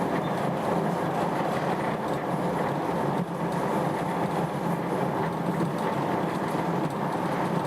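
Steady running noise of a moving passenger train, heard from inside the carriage.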